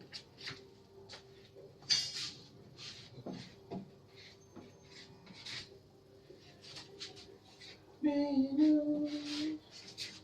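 Repeated short scraping strokes of a hand tool on the helicopter's body, about two a second and uneven, typical of putty being spread or sanded before painting. A brief pitched, voice-like tone sounds about eight seconds in.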